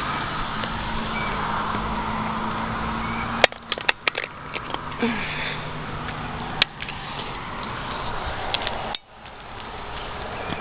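Steady road noise from passing traffic, with an engine hum in the first few seconds. A quick cluster of sharp clicks and knocks comes about four seconds in, and a single click about six and a half seconds in.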